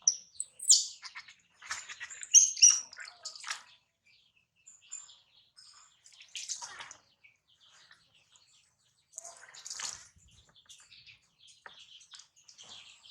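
Newborn baby monkey giving short, high-pitched squeaks while being bathed, with water sloshing and splashing in between. The squeaks come in a cluster in the first few seconds, then the water sounds come in a few brief bursts.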